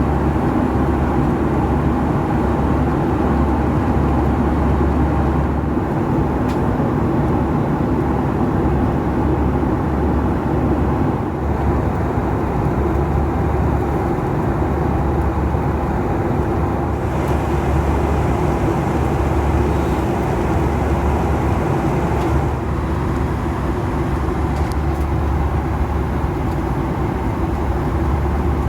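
Steady cabin noise of a Boeing 757-200 airliner in flight, a constant engine and airflow drone.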